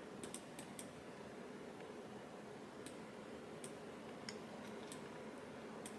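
A few faint, scattered computer clicks over low room hiss.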